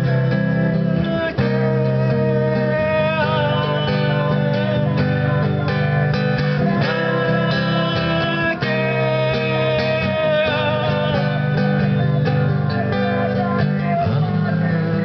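Acoustic guitar strummed and picked in a steady song accompaniment, playing on as the instrumental ending after the last sung line.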